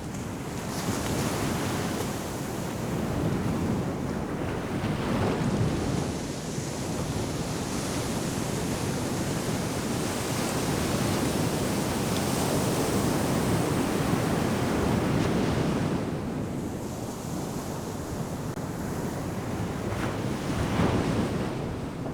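Ocean surf breaking and washing up a sandy beach in repeated swells that rise and fall over several seconds, with wind buffeting the microphone.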